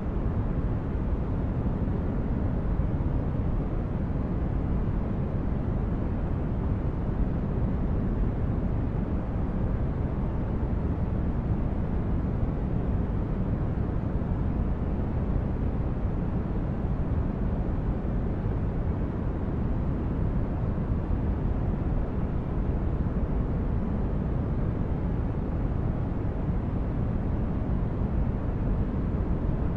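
Steady, unchanging noise for sleep and relaxation, billed as white noise but weighted toward the low end, so it sounds like a deep, even rush rather than a hiss.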